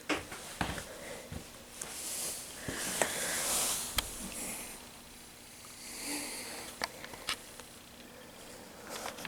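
Handling noise from a plastic HO-scale model locomotive being turned over in the hands: scattered light clicks and soft rustling.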